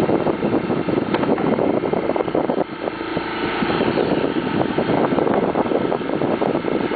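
A small boat's motor running steadily, a constant drone with a fast flutter, dipping briefly about two and a half seconds in.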